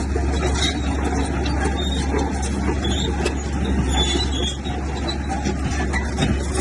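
Heavy diesel earthmoving machinery running steadily, with a deep, constant engine drone and scattered short high squeaks.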